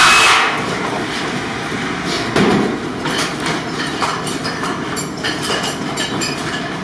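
A steady machine whir with a thin high whine cuts off about half a second in. After it come scattered knocks and clatter of work-site handling, with a louder thump about two and a half seconds in.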